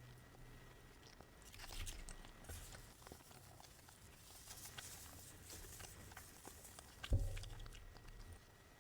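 A person chewing and biting McDonald's food, with small crunchy clicks scattered through. One dull thump about seven seconds in is the loudest sound.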